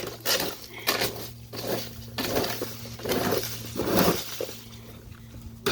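Irregular crunching, rustling and knocking of handling and work noises, over a steady low hum, ending in one sharp loud click.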